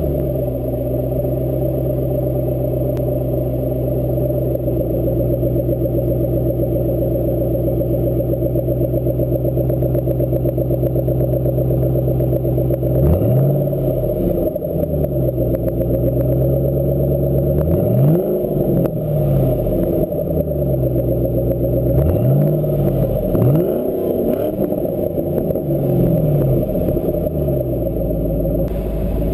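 2010 Mustang GT's 4.6-litre V8 through a Roush Extreme Offroad cat-back exhaust, idling steadily just after starting, then blipped several times in the second half, each rev rising quickly and falling back to idle.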